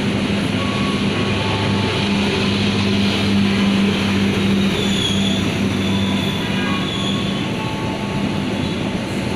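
Tegal Express passenger train running through the station without stopping: a dense, steady rumble of the passing train with a low steady hum that drops away about seven seconds in.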